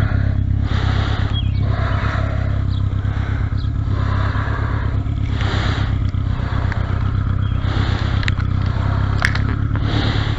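Motorcycle engine running steadily on a held throttle just after a roll start; the battery is flat, so the throttle is kept up to stop it stalling.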